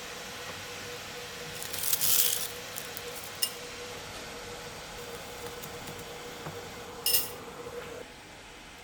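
Small handling sounds of hand work at a bench: a short scrape about two seconds in, a sharp click, and another short scrape with a click near seven seconds. Under them runs a faint steady hum that stops near the end.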